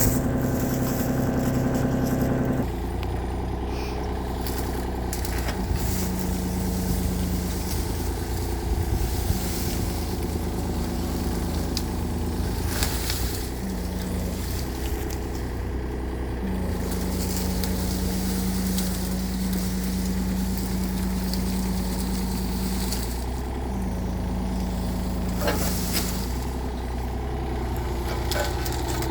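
Mini excavator's diesel engine running, its note dropping about two and a half seconds in, with a steady low hum that comes and goes in stretches of a few seconds.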